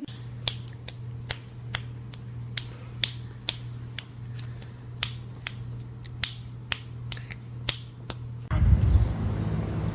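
Sharp clicks repeating about twice a second over a steady low hum, ending in a switch to louder, noisier sound near the end.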